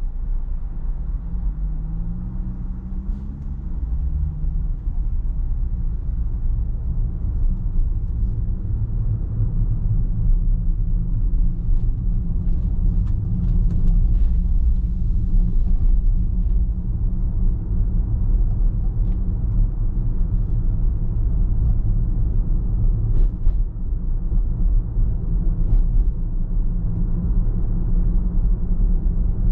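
Car driving on the road, a steady low rumble of engine and tyre noise; the engine note rises briefly a second or two in as the car speeds up.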